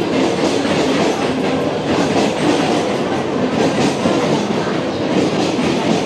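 Mumbai suburban local EMU trains on the tracks beside the platform: a steady loud rumble with the clickety-clack of wheels over rail joints.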